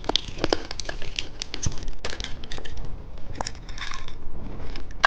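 Plastic candy wrapping crinkling and crackling as it is handled and torn open, a quick run of sharp crackles and small clicks.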